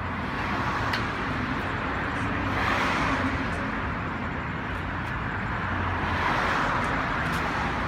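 Road traffic noise: a steady wash of passing vehicles with a low hum, swelling as cars go by about three seconds in and again near the end.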